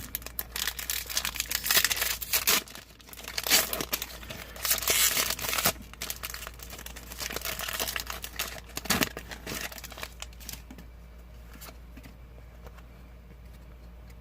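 Foil Pokémon booster pack wrapper crinkling in bursts and being torn open, lasting about ten seconds before it stops.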